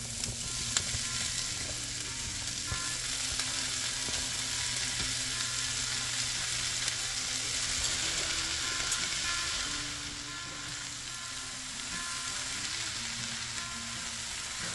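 Onions and butter frying in a cast iron skillet, a steady sizzle that swells a little in the middle as chunks of corned beef and rehydrated hashbrown potatoes hit the hot pan, with a spatula stirring the mix near the end.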